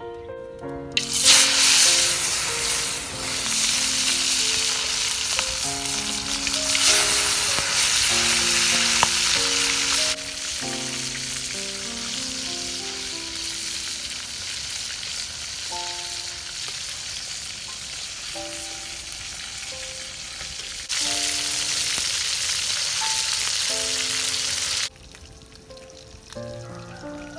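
Lemongrass-marinated lizards (skinks) deep-frying in hot oil in a wok, a loud steady sizzle. It starts about a second in, eases somewhat about ten seconds in, is loud again from about twenty-one seconds and stops abruptly near the end.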